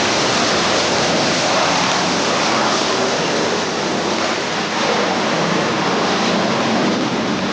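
AV-8B Harrier II's Rolls-Royce Pegasus turbofan running at high power: a loud, steady, even rushing jet noise.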